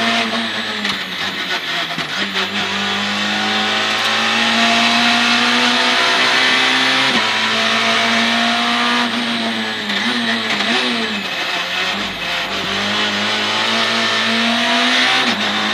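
Citroën C2 R2 Max rally car's 1.6-litre four-cylinder engine heard from inside the cockpit, revving up through the gears with a sudden drop in pitch at each upshift. About ten seconds in it slows with a quick run of downshifts, the pitch jumping up and down, then pulls up through the revs again.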